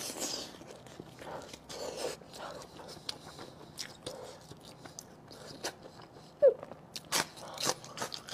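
Close-miked biting and chewing of cooked pork intestine: wet mouth sounds and lip smacks broken by small clicks, with a few sharper, louder clicks near the end.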